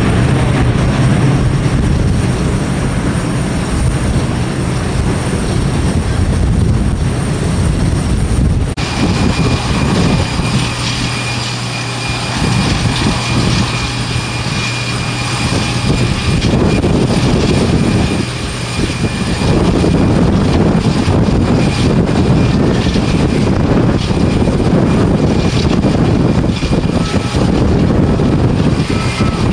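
Jet airliner engines running under a dense, steady rush of noise. About nine seconds in, a thin high whine joins it and holds.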